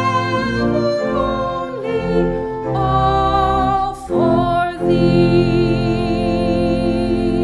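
Sung hymn with instrumental accompaniment, closing on a long held final note.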